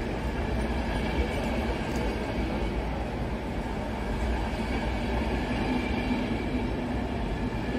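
Coaches of a EuroCity passenger train rolling past a station platform: a steady noise of wheels running on the rails.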